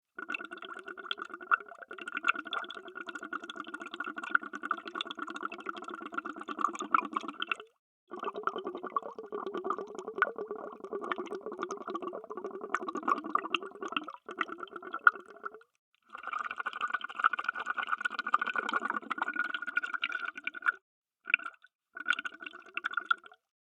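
Underwater bubbles: a dense, continuous stream of fine bubbling. It breaks off into complete silence for a moment several times, near eight, sixteen and twenty-one seconds in.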